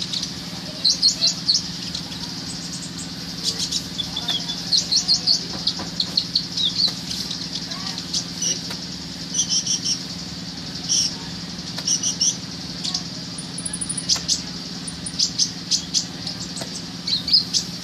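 A songbird singing in short bursts of rapid, high chirps and trills, repeating every second or two, over a steady low hum.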